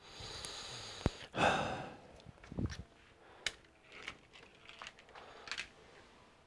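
A short breathy rush of noise in the first two seconds with a sharp click about a second in, then scattered light clicks and taps from handling the all-in-one computer's parts during reassembly.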